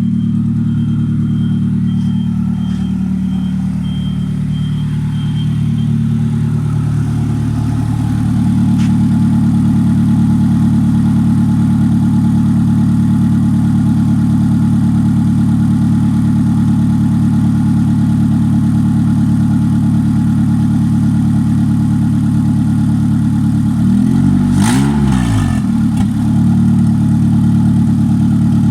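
Honda Fit GD1's 1.3-litre L13A four-cylinder engine idling steadily, revved once near the end with a quick rise and fall in pitch.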